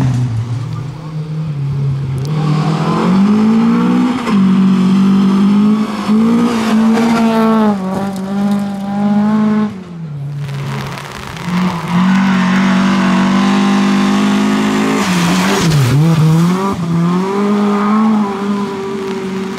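Volvo 740 rally car engine revving hard under full throttle, its pitch climbing and settling through a series of gear changes. It drops off briefly about halfway through and again near the end before pulling up once more.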